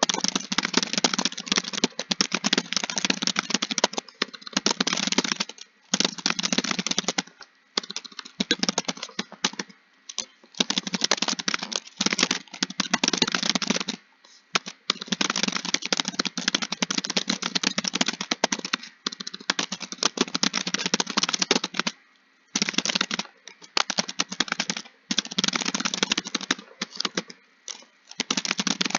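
Fast typing on a keyboard: rapid keystrokes in long runs, broken by brief pauses every few seconds.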